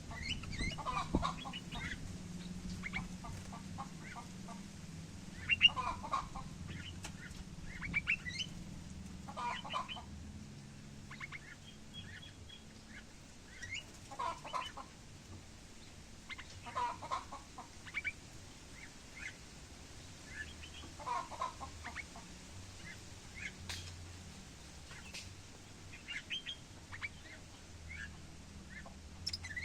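Mixed birds calling: a fuller call repeats every two to four seconds, with short high chirps scattered between.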